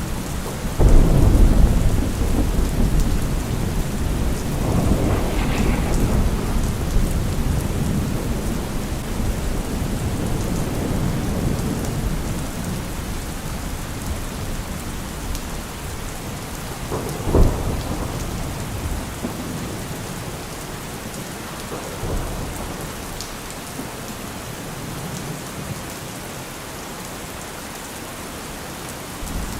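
Steady rain with thunder rolling through it: a loud low rumble about a second in, and several fainter rumbles later, one sharper near the middle.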